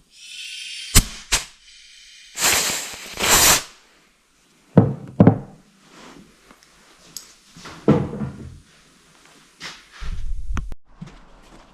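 A series of sharp knocks and clunks, as of tools and parts being handled, with two loud rushing noises about two and a half seconds in and a short low rumble near the end.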